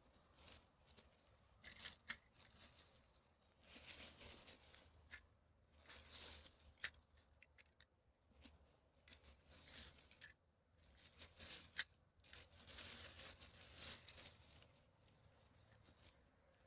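Repeated bursts of rustling and crinkling from litter being picked up and handled, with a few sharp snaps, about 2, 7 and 12 seconds in.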